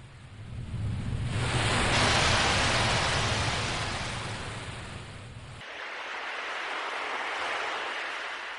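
Sea waves surging in and washing back. One large wave swells to a peak about two seconds in and fades, with a low rumble under it that stops abruptly. A gentler second wave follows.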